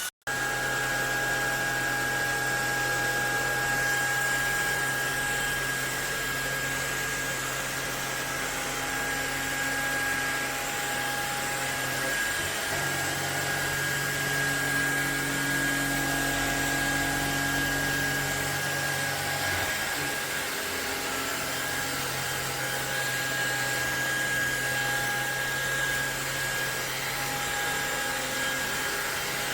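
MONSGA cordless stick vacuum cleaner running steadily, a whirring motor and airflow with a steady high-pitched whine. The sound cuts out for a moment right at the start.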